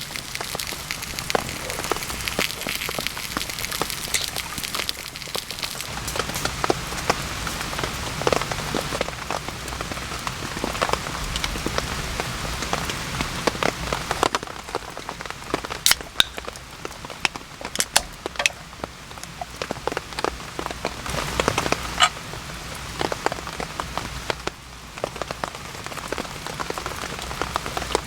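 Steady rain falling in a forest, with a continuous hiss of rain and many separate drops landing close by as sharp clicks and taps.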